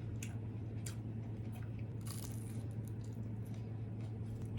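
Scattered small crunches and clicks of someone eating, with a brief rustle about two seconds in, over a steady low hum.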